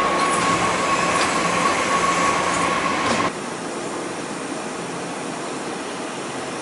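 Nankai electric commuter train running along the platform, with rumbling running gear and a steady high-pitched squeal. About three seconds in the sound cuts abruptly to the quieter, steady hum of trains standing at the platform.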